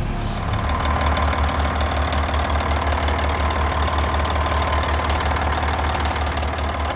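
The engine of an old bucket loader running at idle with a steady, even low throb.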